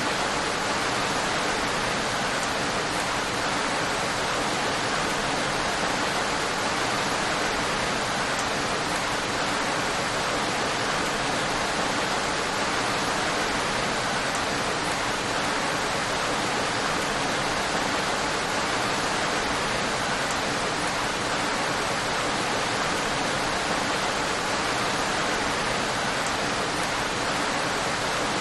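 Steady, even rain, a continuous hiss of falling water with no single drops standing out.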